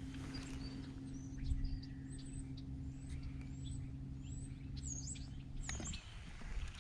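Small birds chirping, with many short high calls and quick glides, over a steady low hum that cuts off near the end.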